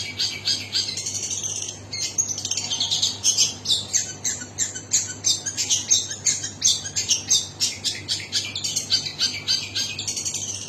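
Long-tailed shrike (cendet) singing a fast, unbroken run of high chirping notes.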